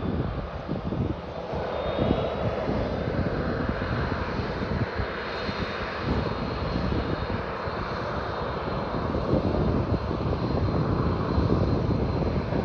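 Boeing 737 twin turbofan engines running: a steady jet roar with a faint high whine through it.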